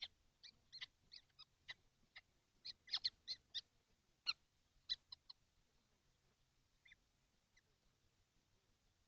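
Kestrels giving a quick, uneven run of short, high calls, about sixteen in the first five seconds, then two faint calls a little later.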